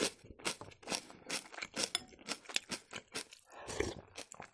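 Close-miked crunchy chewing: a quick run of crisp crunches, several a second, as a mouthful of raw celery is chewed.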